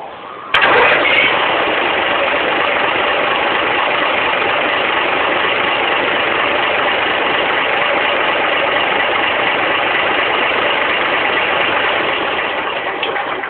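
Tractor's Saviem engine running steadily and loudly, starting abruptly about half a second in.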